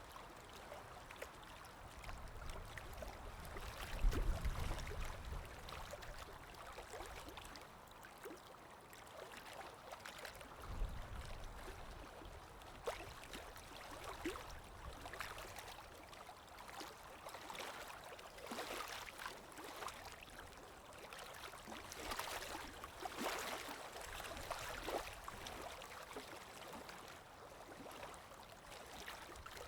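Underwater water ambience: a steady wash of water with faint crackles and gurgles, and low rumbling swells about four and eleven seconds in, the first the loudest.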